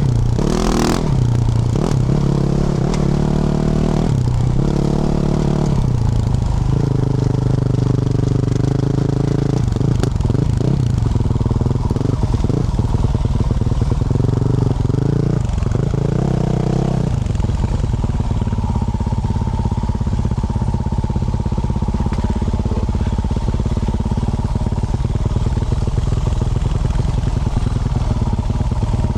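A 2024 Yamaha YZ450F's single-cylinder four-stroke engine through a Yoshimura RS-12 exhaust, revving up and down repeatedly under riding throttle with a sharp rev in the first second. About two-thirds of the way in, the engine settles to a steady, even note.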